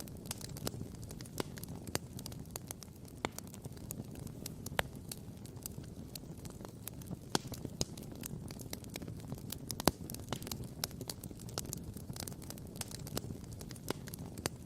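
Wood campfire crackling and popping: irregular sharp pops over a low, steady rumble, with one louder pop about ten seconds in.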